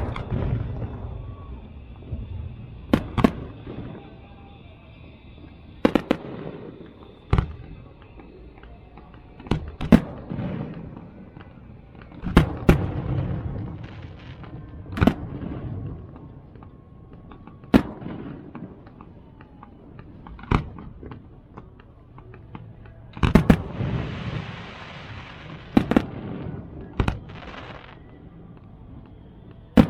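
Fireworks display: sharp bangs every two to three seconds, many followed by a low rolling rumble and echo. About two-thirds of the way through comes a longer stretch of crackling.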